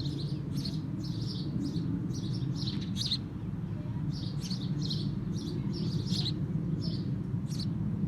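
Small birds chirping: short high chirps, several a second in quick runs with brief pauses, over a steady low hum.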